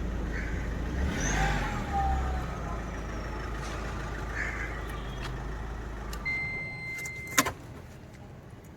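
Mahindra Scorpio's 2.2-litre four-cylinder mHawk diesel engine idling with a steady low hum, then switched off about six seconds in. A steady electronic beep follows for about a second, cut off by a single sharp thump.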